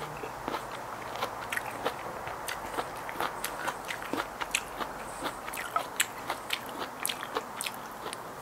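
Close-up eating sounds of someone chewing a spicy Thai raw salmon salad: soft wet chewing with many short, irregular mouth clicks and smacks, and the spoon now and then working through the food on the plate.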